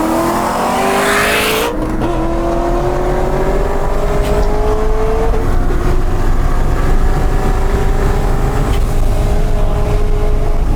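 Supercharged LS1 V8 of a C5 Corvette under hard acceleration, its engine note climbing through the gears. A hiss builds over the first two seconds and cuts off as the pitch drops for a shift, then the note climbs steadily again.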